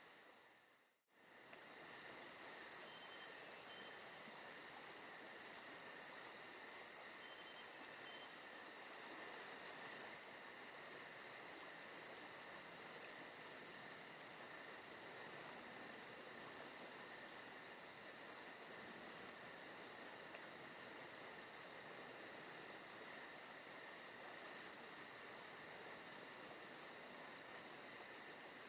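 Faint forest ambience of crickets and other insects trilling steadily in a fast, even pulse. The sound cuts out briefly about a second in, then resumes.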